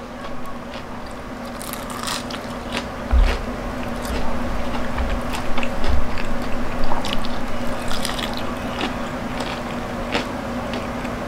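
Close-up chewing of a mouthful of crispy fried chicken, the crunchy batter crackling in short, irregular bursts, with a few dull low thumps about three to six seconds in.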